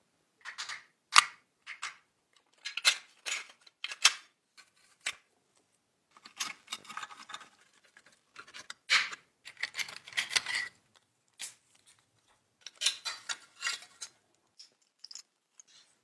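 Close-up clicks, taps and scrapes of small metal parts and hand tools being handled during work on a 1938 Fleischmann model locomotive. The sounds come in irregular clusters with short silent gaps between them.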